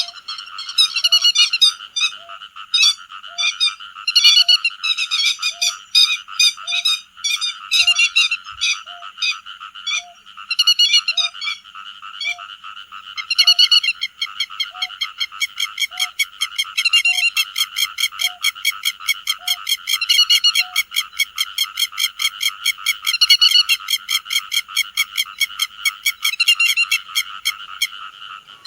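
Lapwing (te vàng) calls on a bird-lure recording: repeated sharp calls over a dense croaking chorus. A short low note repeats about every second until about two-thirds of the way through. Then a fast run of clicks, about four a second, takes over.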